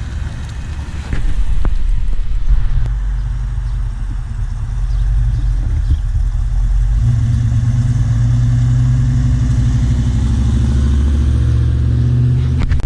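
A car engine running close by at low speed with a deep, steady note, growing louder about a second in.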